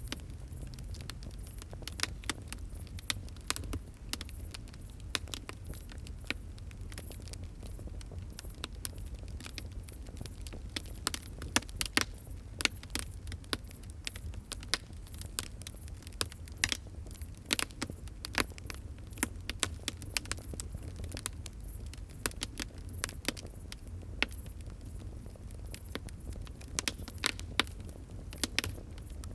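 Wood fire crackling, with irregular sharp snaps and pops over a steady low rumble of burning; a cluster of louder pops about eleven to thirteen seconds in.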